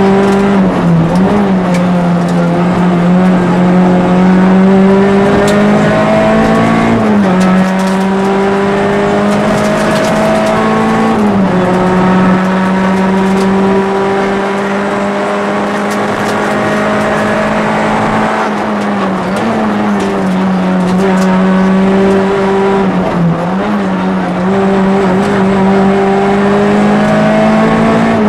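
Peugeot 206 RC rally car's four-cylinder engine heard from inside the cabin, running hard at high revs. Its pitch climbs steadily and dips briefly at gear changes about five times.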